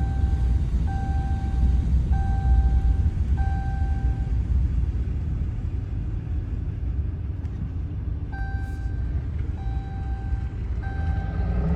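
Ford 7.3 diesel V8 idling steadily while it warms up after a winter cold start, a low rumble. A vehicle warning chime beeps over it about once a second, stopping about four seconds in and starting again near the end.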